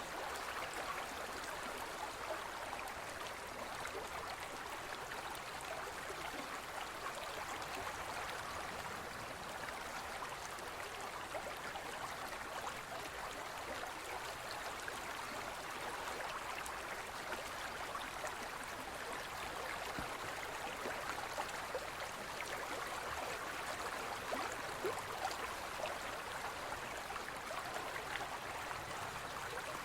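Forest stream flowing: a steady rush of water with many small splashes and gurgles through it.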